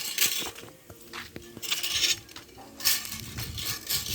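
Hard objects clattering and clinking as they are handled, in about five short bursts with a few sharp clicks in between.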